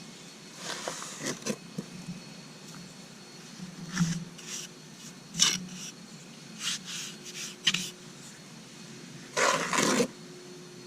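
Hand trowel scraping and pressing a stiff, dry portland-and-sand patching mortar onto a concrete step, in irregular short strokes; the loudest stroke, near the end, lasts about half a second.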